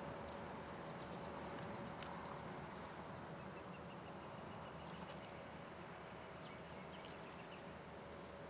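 Faint birdsong: small birds chirping, with a quick run of ticking notes in the middle and a short high chirp near the end, over a steady faint tone and a few light clicks.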